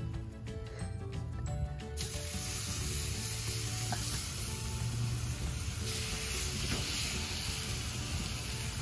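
Background music, then about two seconds in a steady sizzle of tacos frying on a flat-top griddle starts abruptly and carries on. The sizzle gets brighter around six seconds in, with faint music still under it.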